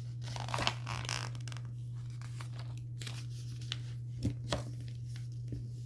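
Paper rustling as a picture book is handled, over a steady low electrical hum, with two light knocks about four seconds in.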